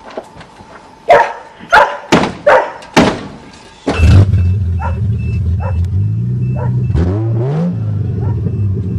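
A dog barks about five times, loud and sharp. Then, about four seconds in, the 1982 Toyota Cressida's fuel-injected engine starts and settles into a steady idle, with a short rising rev near the end. A repeating high beep, like a dashboard warning buzzer, sounds while it runs.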